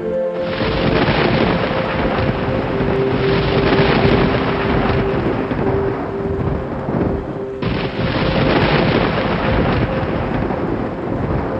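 Thunder rumbling over heavy, steady rain, with soft sustained music notes underneath. The storm noise cuts in abruptly just after the start and again about two-thirds of the way through.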